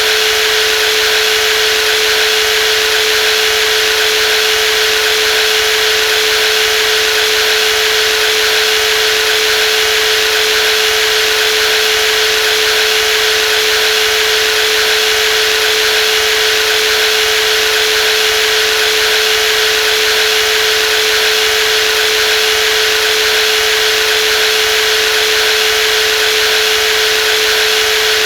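Brushless jigsaw running steadily at constant speed: an even motor whine with one strong steady tone and a hiss above it, unchanging throughout.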